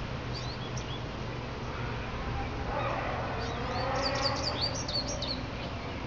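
Small birds chirping in short, quick calls, a few near the start and a busy run of them past the middle. Under them run a steady low hum and a broad wash of noise that swells and fades in the middle.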